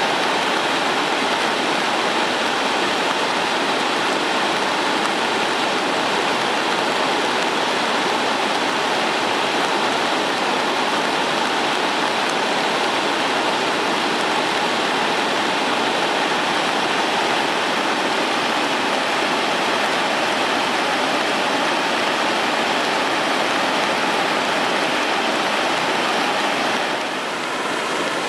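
Sogi Falls on the Sendai River, swollen by continuous rain, pouring in flood. It makes a loud, steady rush of falling water that shifts slightly near the end.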